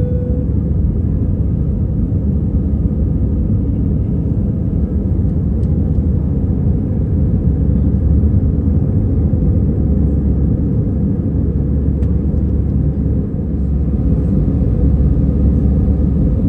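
Steady low rumble of a vehicle in motion, with no distinct engine note standing out.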